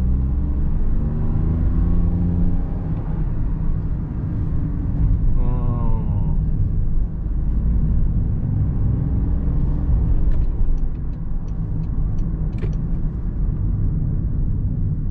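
Toyota Sienta's 1.5-litre three-cylinder petrol engine and road noise heard from inside the cabin while pulling away and driving. The engine note rises in pitch over the first few seconds, over a steady low rumble.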